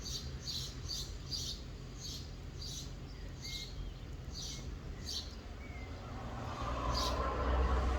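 Soft rain falling, with a bird repeating short high chirps about twice a second. A low rumble swells in near the end and becomes the loudest sound.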